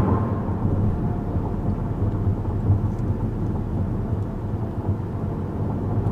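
Steady low rumble of road and tyre noise inside the cabin of a 2014 Chevrolet Impala with the 2.5-litre four-cylinder, driving along at an even pace.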